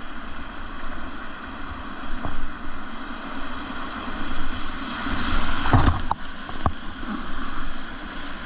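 Rushing whitewater of a river rapid heard from a kayak, with wind on the microphone; the rush swells about five seconds in, with a few sharp knocks around six seconds.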